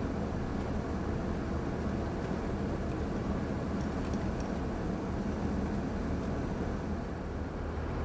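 Steady low rumble of a moving car, engine and road noise with no break or change.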